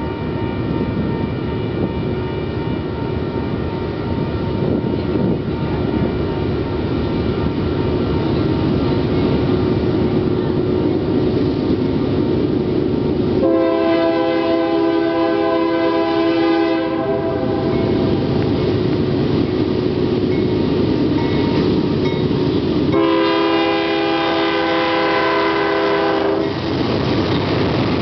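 A freight train's diesel locomotives approaching with a steady rumble that grows louder. The lead Union Pacific locomotive sounds its air horn in two long chords, one about halfway through and one near the end, each lasting several seconds.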